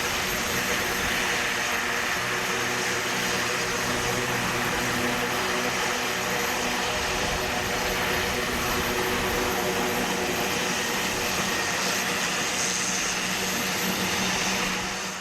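An airliner's engines running steadily, a constant roar with held tones, dropping away sharply right at the end.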